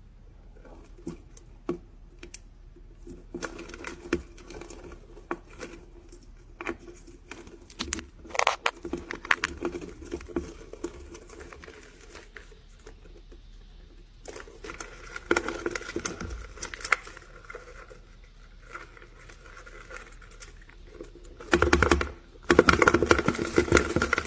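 Irregular rustling and crinkling with scattered sharp clicks, growing denser and louder near the end.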